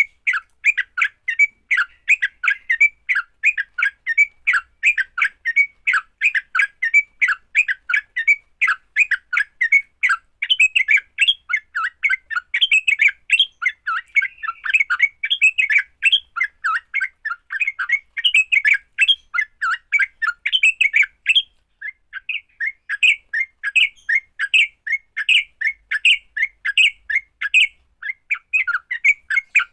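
Yellow-vented bulbul (trucuk) giving its fast, chattering fighting call: a dense run of short, sharp notes, several a second, with a brief pause about twenty seconds in.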